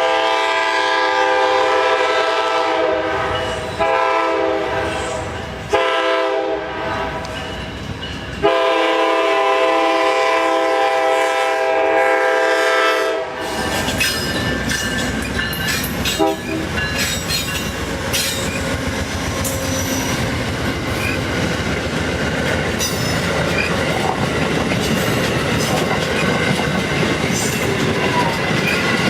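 A train's multi-chime locomotive horn sounds four blasts, the last held about five seconds. The train then rolls past with steady rail noise and the clickety-clack of wheels over rail joints, with a little wheel squeal.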